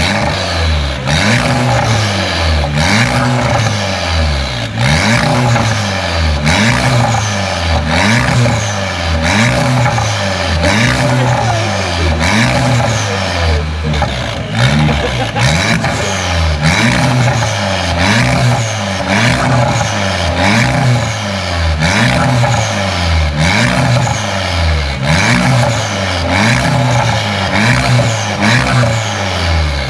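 Car engine revved over and over, its pitch rising and falling about once a second.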